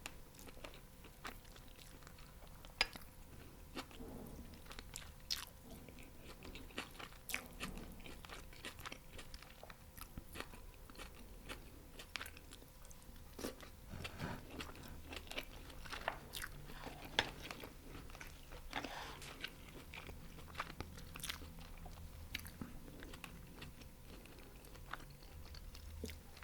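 Close-miked eating: chewing and crunching fried chicken wings and fried rice, a steady run of irregular crackles and crunches a few times a second.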